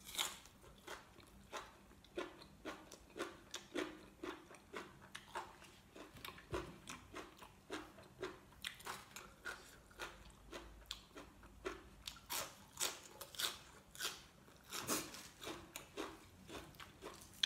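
A person chewing crisp raw vegetables with the mouth close to the microphone: a steady run of sharp crunches, about two a second.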